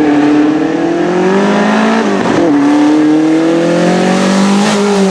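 Historic racing car engine under load, its pitch climbing slowly, then dropping briefly about halfway through as it shifts up a gear before climbing again.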